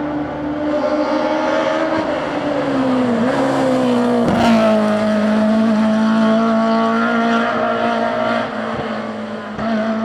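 BMW M3 E30 Group A rally car's four-cylinder engine running hard at high revs. Its note sags in pitch over a couple of seconds, with a sharp crack about four and a half seconds in, then holds a steady high note.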